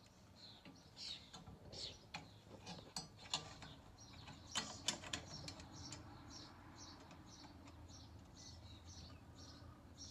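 Faint clicks and light knocks of tools and metal parts being handled during reassembly, loudest in the first half, over short high chirps repeating a few times a second.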